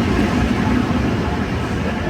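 Train running with a steady loud rumble.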